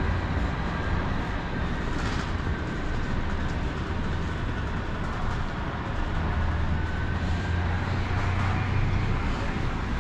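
Train running by with a steady rumble and a faint high whine near the start and again about seven seconds in.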